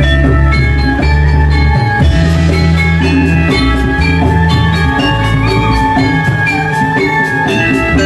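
Gamelan music: metallophones ring out a fast melody of struck notes over drums and deep held bass notes.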